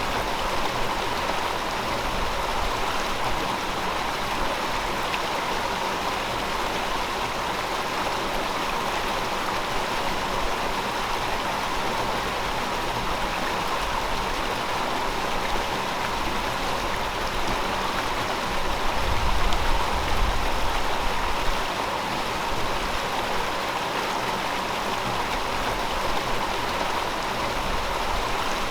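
River water flowing over rocks, a steady rushing and gurgling. About two-thirds of the way through, a low rumble swells for a couple of seconds.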